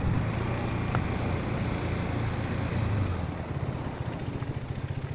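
Motorcycle running at low speed, a steady low rumble, with a single sharp click about a second in.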